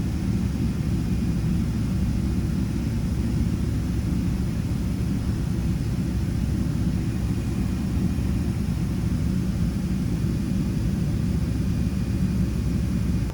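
Steady low rumble of a Boeing 777 airliner cabin: engine and airflow noise heard from a passenger seat, holding at an even level throughout.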